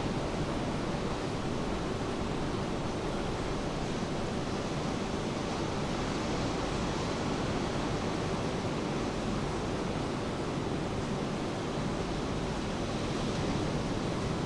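Steady rain with ocean surf washing underneath, a continuous even hiss with no breaks.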